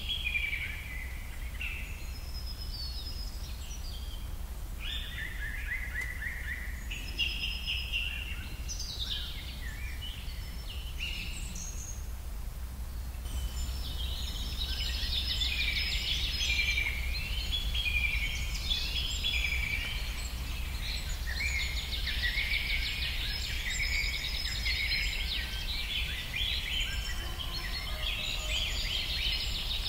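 Wild birds chirping and trilling over a steady low rumble, with several calls overlapping. The birdsong grows busier and louder about halfway through.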